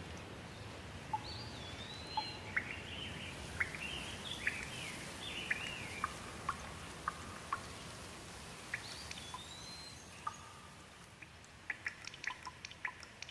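Light rain hiss with a bird calling in a run of short chirps and warbled notes, first for several seconds and again briefly past the middle. Near the end, water drips tap in quick succession.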